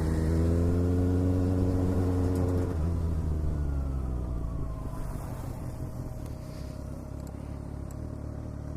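Motorcycle engine running at a steady speed; about three seconds in the throttle closes and the sound drops away and fades.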